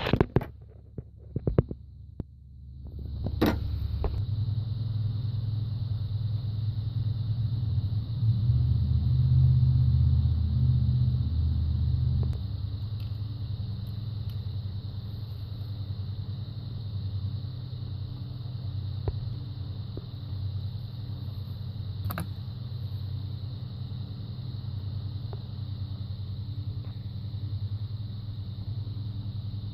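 2002 Mitsubishi Galant engine running at idle with a steady low rumble. It comes in after a few clicks and a brief lull in the first three seconds, runs louder for a few seconds, then settles. The rough idle is the fault the owner traced to a faulty spark plug boot/wire.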